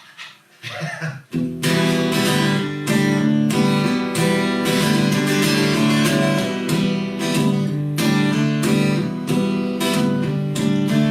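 Acoustic guitar strumming chords in a steady rhythm: the instrumental intro to a song, starting a little over a second in.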